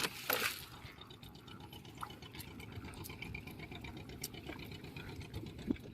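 Water splashing and dripping, with one louder splash just after the start and small drips and ticks through the rest.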